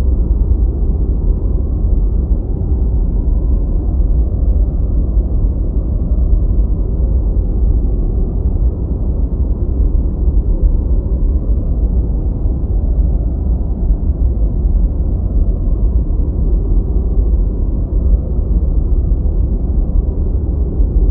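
Steady deep white noise for studying, a constant muffled hiss with its weight in the bass and no high end. It runs unchanged, with no alarm or other events.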